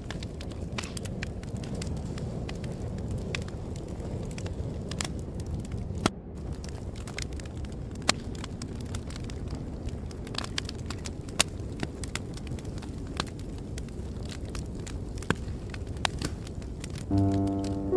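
Wood fire crackling, with scattered sharp pops over a steady low rumble. Soft piano music comes in about a second before the end.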